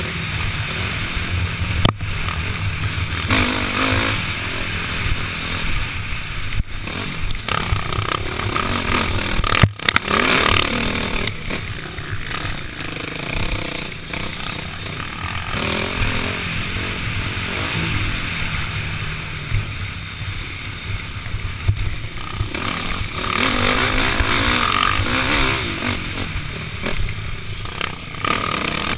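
KTM 505 four-stroke single-cylinder dirt bike engine running under load while racing round a motocross track, the revs rising and falling with a rough, noisy edge. A few sharp knocks come through, the loudest about ten seconds in.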